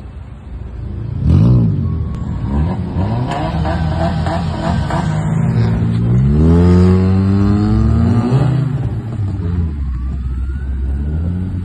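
Modified cars' engines revving and accelerating, the pitch climbing and dropping several times. There is a short rise and fall about a second in and a long rising run about halfway through.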